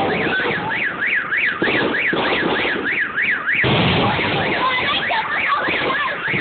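Aerial fireworks bursting and crackling, with an electronic siren warbling up and down about two to three times a second. About three and a half seconds in, a loud burst drowns the siren, and a spell of crackling follows.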